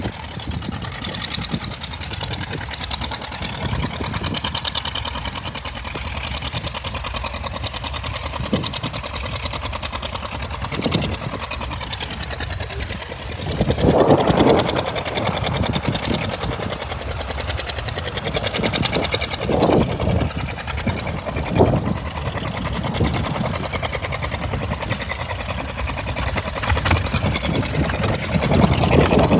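A tractor engine running with a fast, even rhythm, briefly louder about halfway through and swelling a few more times near the end.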